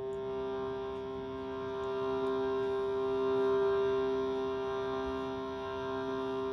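A steady instrumental drone, one held chord of several tones, sounding as the introduction to a devotional song; it swells slightly in loudness midway.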